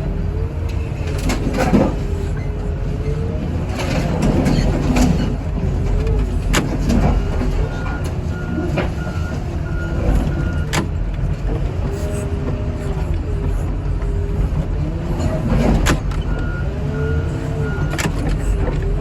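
Diesel heavy equipment working scrap cars. A deep engine rumble runs under a whine that rises and falls as the machine is worked, with scattered metal knocks and crunches. A backup alarm beeps twice in spells, about eight seconds in and again near the end.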